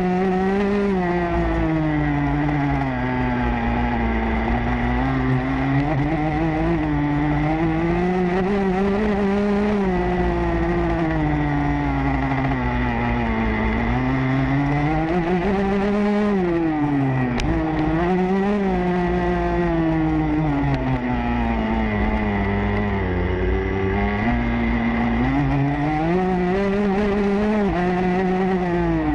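Motocross bike engine heard from onboard, revving up and dropping back over and over as the rider accelerates, shifts and brakes around the track, over steady low wind noise on the microphone.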